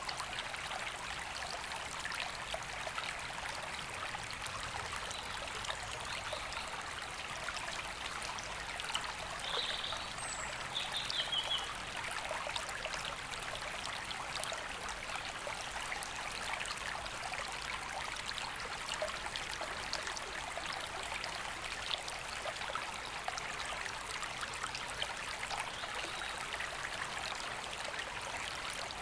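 River water flowing steadily. A bird calls a few short notes about ten seconds in.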